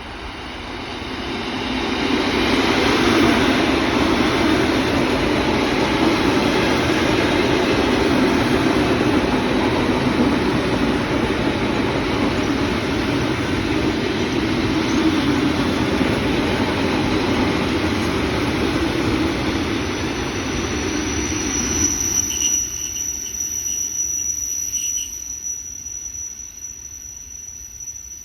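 ED4MK electric multiple unit pulling into a station: a loud, dense rumble of wheels on rail and running gear builds over the first two seconds and holds. About three quarters of the way through, the rumble fades as the train slows and a steady high-pitched squeal carries on to the end.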